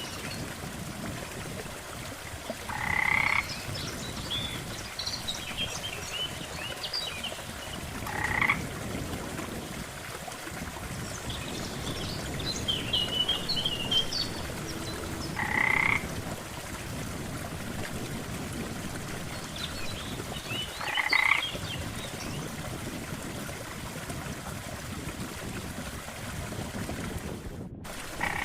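Frogs croaking at a lake: one loud, short croak every five or six seconds over a steady background hiss, with smaller, higher chirping calls in between. The sound drops out for an instant near the end.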